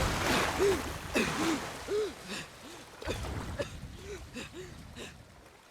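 A voice gasping and whimpering in a string of short, rising-and-falling breaths over the rush of floodwater, fading away near the end.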